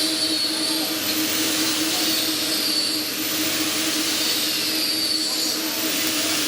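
Warco Super Mini Lathe running steadily while turning a mild-steel part: a steady hum with a hiss over it, and a faint high whine that rises and falls about every two seconds.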